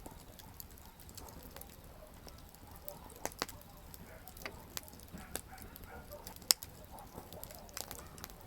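Wood campfire burning, with irregular sharp crackles and pops over a low steady rumble. One pop stands out, loudest about six and a half seconds in.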